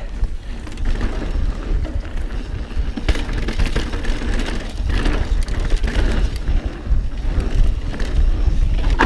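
Mountain bike riding fast down a dirt trail: wind buffeting the camera's microphone, with tyre noise and the bike rattling over bumps in many short knocks. The sound swells just as it begins as the bike picks up speed.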